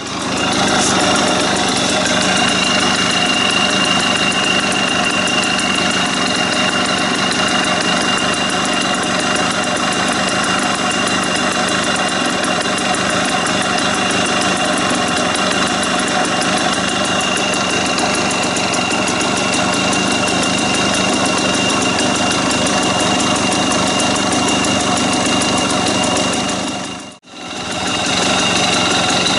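Engine idling steadily through an aftermarket 'Bobby' muffler, with a thin steady high whine over the exhaust note. The sound cuts out briefly about 27 seconds in, then resumes unchanged.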